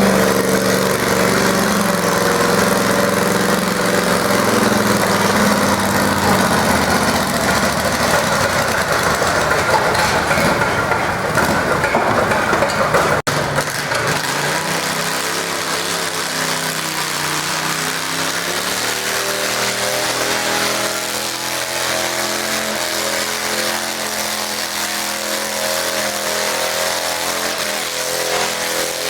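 Garden tractor engine running hard, loudest for the first half. About halfway through it breaks off suddenly, and an engine carries on running more slowly and steadily.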